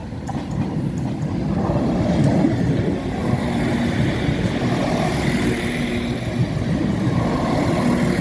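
Northern Ireland Railways diesel multiple unit running through the level crossing. Its engine and wheels make a steady rumble that builds over the first couple of seconds and holds, with a low engine tone coming and going from about halfway through.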